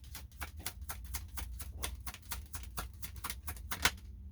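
Tarot cards being handled: a quick, uneven run of light clicks and taps, several a second, with one sharper click near the end.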